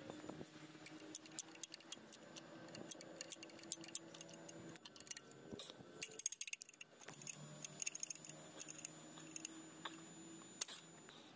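Scattered light metallic clicks and clinks of hand tools: a spanner tightening the diesel injector line fittings. A faint steady hum runs underneath.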